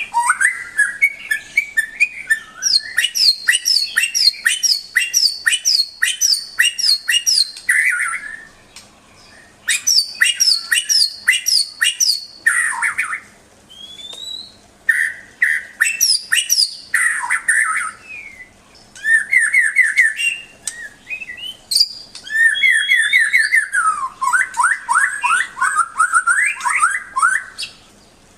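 White-rumped shama (murai batu) singing a varied song: fast runs of repeated sharp notes and trills in phrases with short pauses between them. Near the end comes a long trill whose notes dip lower in pitch and climb again.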